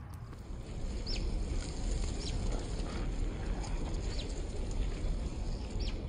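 Bird calling outdoors: several short, high notes that each fall in pitch, spaced a second or two apart, over a steady low rumble.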